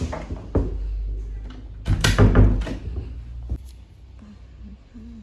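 Several sharp knocks and thuds, bunched around the middle, over a low rumble.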